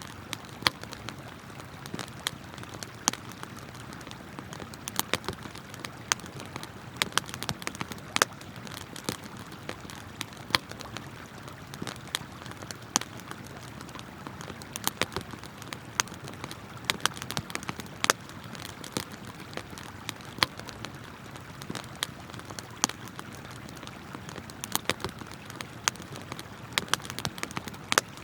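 Wood campfire crackling, with frequent irregular sharp pops and snaps, over a steady rush of flowing river water.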